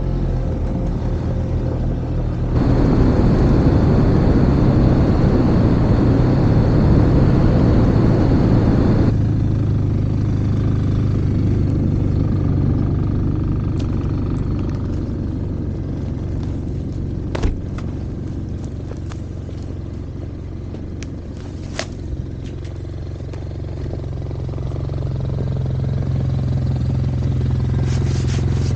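Snowmobile engine running under way with track and snow noise, much louder for about six seconds a few seconds in, then steadier and quieter. A few sharp clicks come through in the middle.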